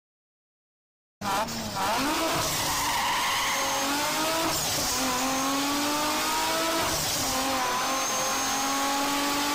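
Racing-car engine sound effect accelerating through the gears over a loud hiss: the pitch climbs steadily and drops back at gear changes about five and seven seconds in. It starts after about a second of silence.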